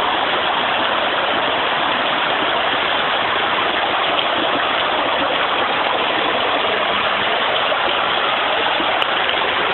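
Steady rush of water from a broken underground water line, with floodwater running down the street; an even, unbroken hiss.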